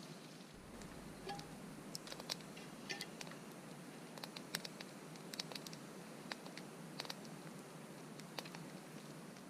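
Wood fire crackling: a steady faint hiss with irregular sharp snaps and pops.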